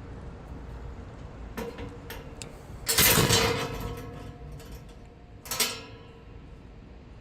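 Metal gate and latch clanking: a few light clicks, then a sharp loud clank about three seconds in that rings on for a second, and a second ringing clank a little before six seconds.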